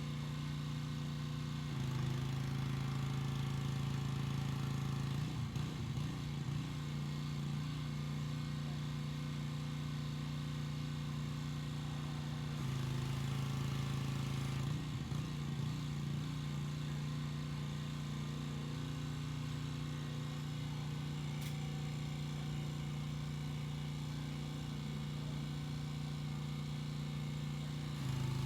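Pressure washer engine running steadily with a hiss above it. The engine note steps down and back up a few times.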